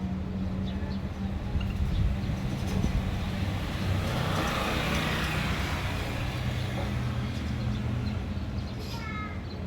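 A road vehicle passing: a steady engine hum whose noise swells to a peak about halfway through and then fades. A small bird gives a brief chirp near the end.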